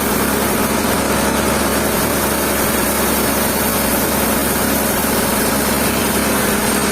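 Sawmill machinery running steadily: a loud, even mechanical din with a constant low hum.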